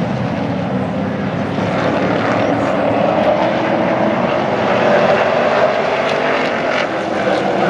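Super Trucks race trucks' engines running on the oval track: a loud, steady drone of several engines together that swells slightly partway through.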